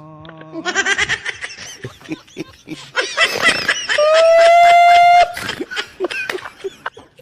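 People laughing in quick choppy bursts, broken by one long shrill held cry lasting about a second, the loudest sound, about four seconds in.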